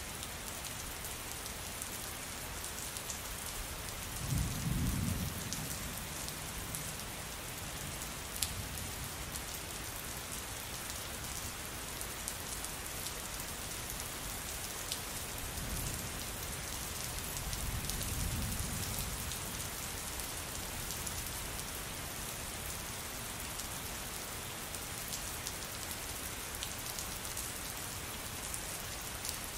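Steady rain falling on a surface, an even hiss with scattered drop ticks. Low thunder rumbles twice, briefly about four seconds in and longer from around sixteen to nineteen seconds.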